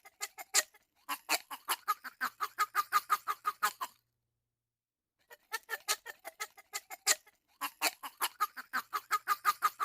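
Duck quacking: rapid runs of quacks at about six a second, in two long bouts with a pause of about a second between them.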